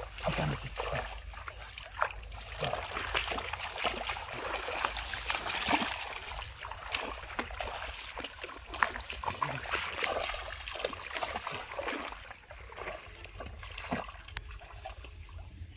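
Hands splashing and sloshing through shallow paddy-field water, with many irregular splashes that ease off in the last few seconds.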